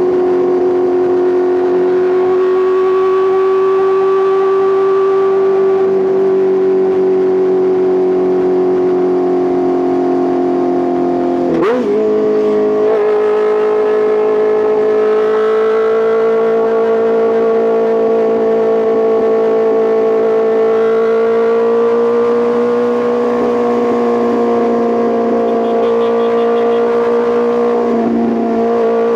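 Honda CBR650R inline-four running through an Arrow Pro Race titanium full exhaust while riding, its note held steady for long stretches. About twelve seconds in, the note breaks briefly and settles at a different pitch, as at a gear change.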